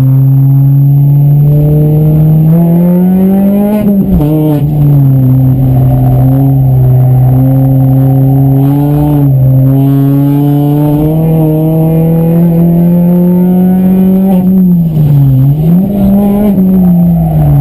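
Citroën DS3 R1 rally car's 1.6-litre four-cylinder petrol engine heard from inside the cabin, running hard at high revs on track. The revs climb, drop sharply about four seconds in, hold high, then dip and pick up again briefly twice, most deeply near the end.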